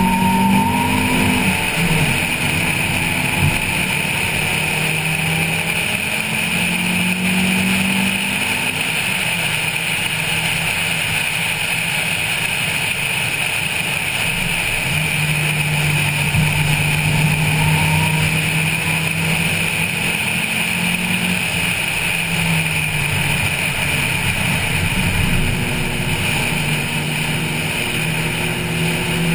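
Stock Honda Civic 1.5's four-cylinder petrol engine pulling hard at track speed, heard from the car's roof over a steady rush of wind and road noise. The engine note rises and falls several times with throttle and gear changes, and holds steady for a few seconds in the middle.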